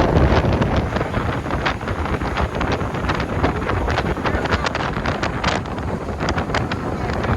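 Wind buffeting the microphone on a moving boat, with many short, sharp crackles scattered through it.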